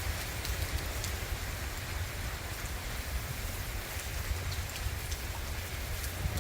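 Steady tropical-storm rain falling, with scattered drip ticks and a low wind rumble on the microphone.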